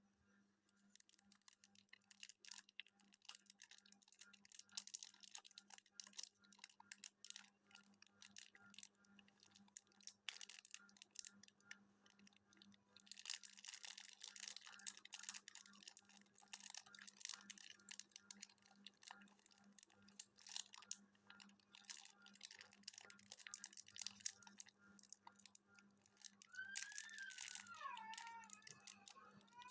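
Faint, irregular crackling and rustling over a steady low hum, denser in spells, with a short wavering squeak that glides down and back up near the end.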